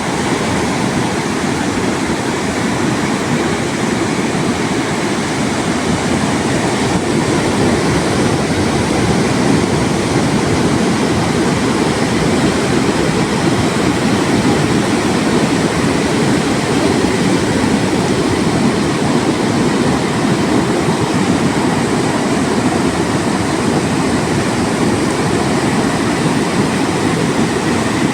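Steady, even roar of surf breaking on the beach, with no breaks or swells.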